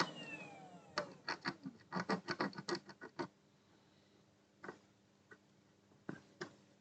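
Soldering iron re-tinning fluxed solder pads on a circuit board: a quick run of small faint clicks and scratches from about a second in, then a few scattered ticks.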